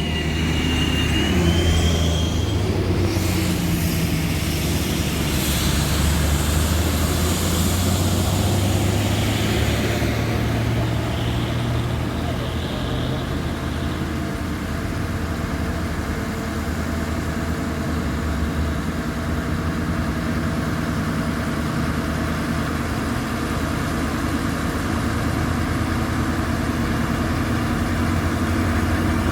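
Heavy truck engine running steadily, with a short rising whine in the first couple of seconds.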